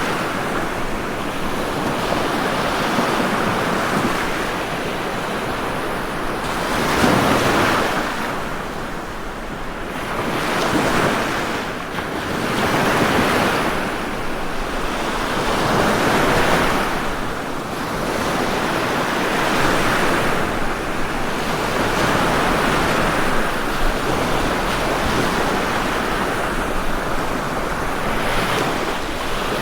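Ocean waves breaking and washing on a shore, a steady surge of surf that swells every three seconds or so.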